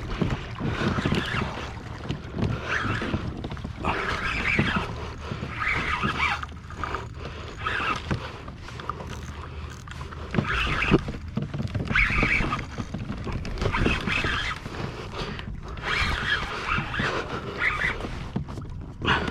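Water lapping and splashing against a kayak hull in irregular swishes every second or two, with wind buffeting the microphone.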